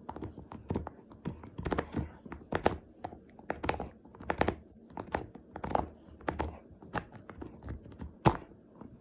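Dog chewing a bone: irregular crunching and cracking bites, with one sharp loud crack near the end.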